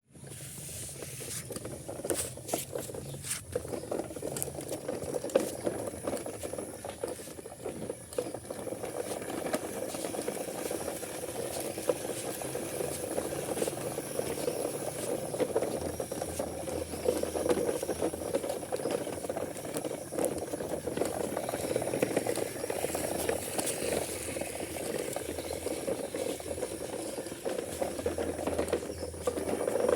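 Toy truck rattling and scraping steadily as it rolls along, with scattered clicks from its plastic parts and wheels.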